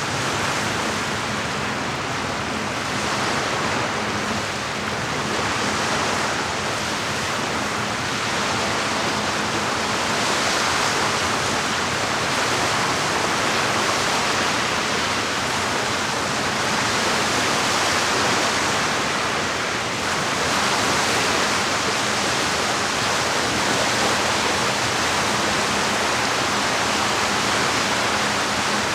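Steady rush of moving water that swells and eases gently every few seconds.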